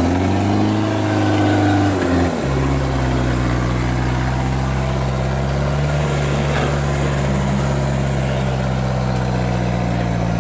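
Off-road 4x4 engine running in a mud pit: its revs rise and fall over the first two seconds, then it holds a steady speed.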